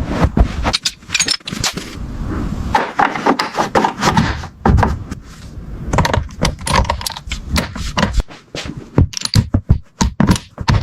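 Small hard parts and tools being handled on a work surface: rapid, irregular clicks, clinks and knocks with short scrapes.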